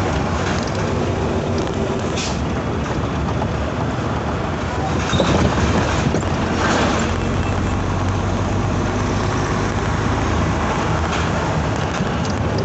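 Isuzu Giga truck's diesel engine running steadily under way, with road noise and a short hiss about two seconds in.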